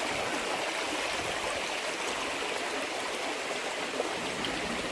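Small Highland river running over rocks: a steady, even rush of flowing water.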